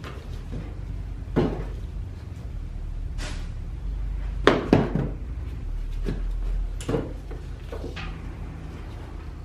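Scattered knocks and clunks of decor items being handled and set down on furniture, the loudest a quick pair about four and a half seconds in, over a steady low hum.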